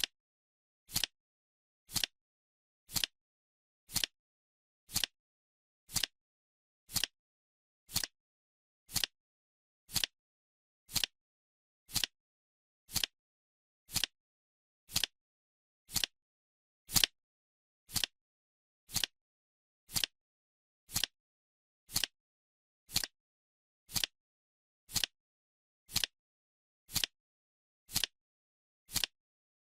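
Clock-style ticking sound effect, one short sharp tick every second, evenly paced.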